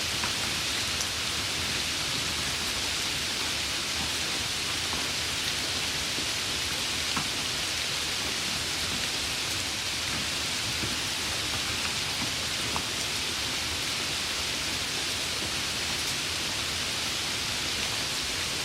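Steady rain falling, an even hiss with a few sharper single drop ticks.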